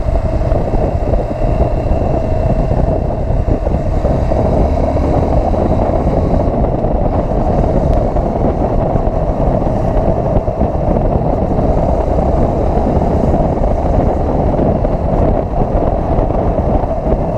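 Motorcycle riding along at steady speed: a constant engine drone mixed with wind rushing over the rider's microphone.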